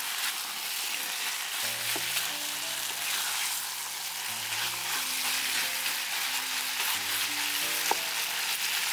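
Marinated beef slices and minced garlic sizzling in hot oil in a frying pan over high heat, stirred and turned with a spatula. Soft background music comes in about a second and a half in.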